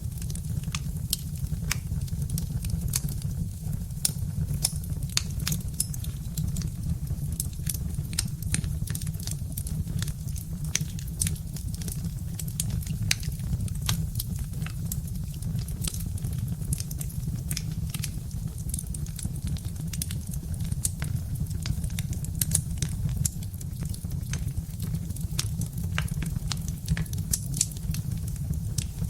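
Birch-wood log fire crackling, with frequent sharp pops and snaps over a steady low rumble.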